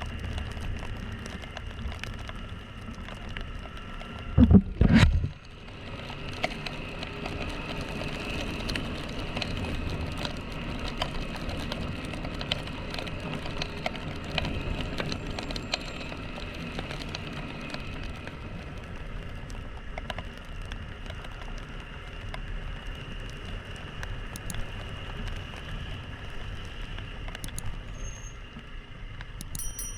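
Small single-cylinder motorcycle engine running steadily under way, with road and wind noise. About four and a half seconds in, two loud thumps.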